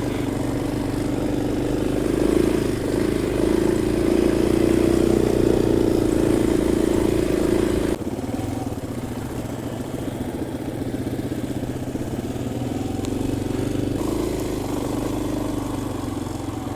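KTM 500 EXC-F single-cylinder four-stroke dirt bike engine running under way on a rough trail, the engine note steady with small changes in throttle. About halfway through the sound drops abruptly to a quieter running note.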